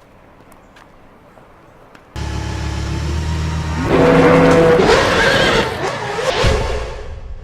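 Racing car engine revving hard, cutting in abruptly about two seconds in after a quiet stretch, then climbing louder with its pitch sweeping up and down as the revs change.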